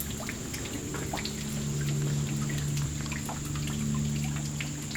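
Small waterfall with a light flow, the water trickling and pattering down with scattered drips and splashes. A low steady hum runs underneath.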